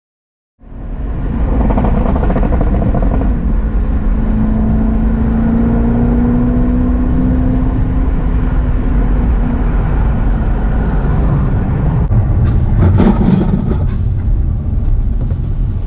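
Car driving on the road: a steady engine hum with road rumble, the engine note rising slightly and then easing off, and a few sharp knocks near the end.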